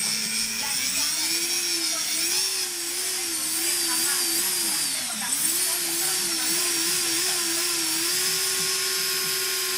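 Racing drone's brushless motors spinning up on throttle with a whine that wavers up and down as the stick is worked, dips and rises again about halfway, then holds steady near the end. One motor is faulty and not spinning up with the others, a fault in the motor or its ESC.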